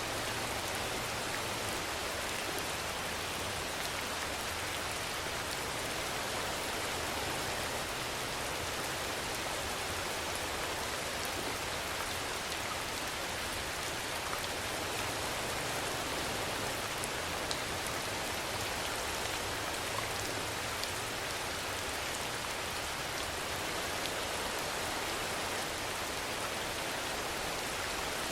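Steady rainfall: an even hiss of rain with a few faint individual drop ticks.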